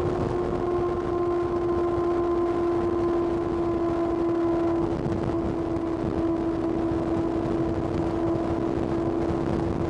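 2025 Kawasaki ZX-6R's 636 cc inline-four engine running on the move, holding a steady note with only a slight shift about halfway through.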